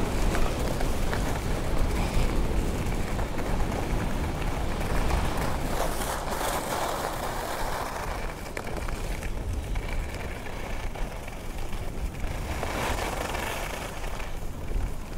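Heavy wind rumble buffeting the camera microphone during a ski descent, with skis rushing over snow. The rushing swells up twice, about six and twelve seconds in.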